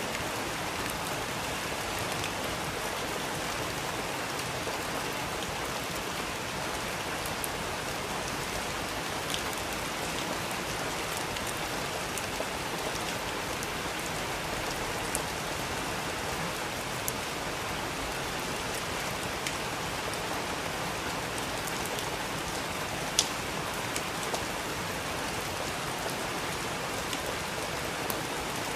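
Steady rain falling, an even hiss with scattered sharper drop ticks, one louder drop about three quarters of the way through.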